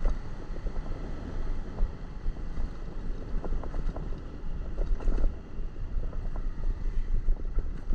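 Wind buffeting the microphone of a moving motorcycle over a low, fluttering rumble of engine and road, with a few faint ticks and knocks.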